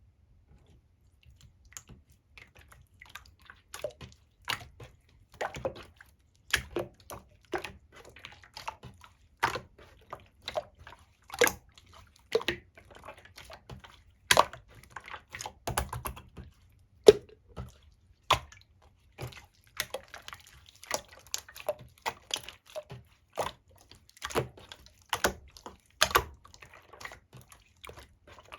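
Yogurt pudding slime being squeezed and poked by hand, giving irregular wet clicks and pops a few times a second.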